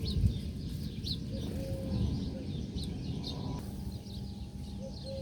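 Several birds chirping in quick high notes, over a low cooing call that repeats as a short-long-short phrase about every two seconds.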